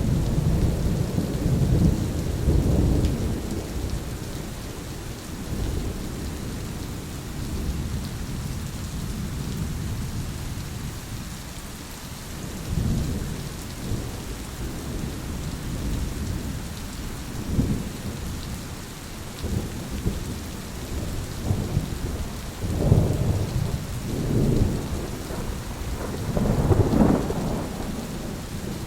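Thunderstorm: steady rain falling, with low rolls of thunder rumbling in and out, loudest at the start and again about 23 and 27 seconds in.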